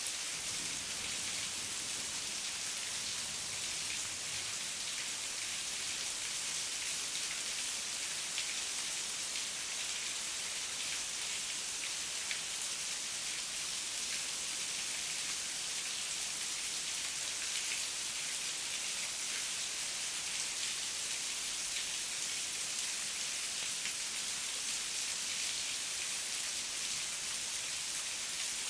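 Heavy rain falling steadily, a dense hiss of drops with fine pattering on surfaces.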